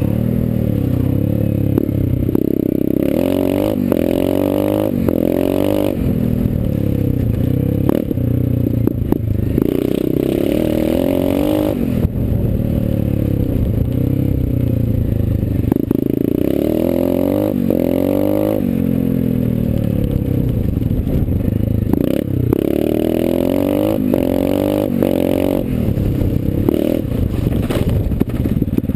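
Small engine of a 2012 Dirt Runner dirt bike being ridden hard, its pitch climbing and dropping over and over as the throttle is worked. The engine has just been broken in.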